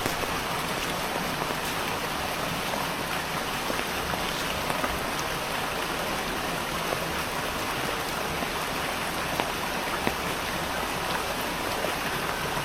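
Steady rain falling: an even hiss with scattered ticks of drops striking a near surface.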